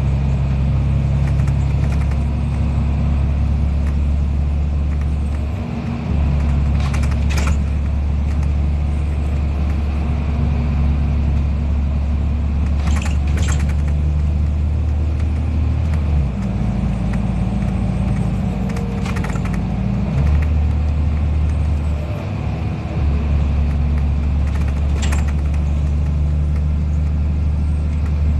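NefAZ-5299 city bus heard from inside the passenger cabin: a steady low engine drone under way, whose note shifts up and down several times. A few brief rattles come through, about a quarter, half and near the end of the way in.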